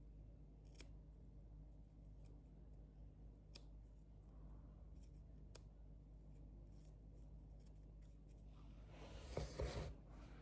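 Near silence: room tone with a few faint scattered clicks, and a brief louder noise about nine seconds in.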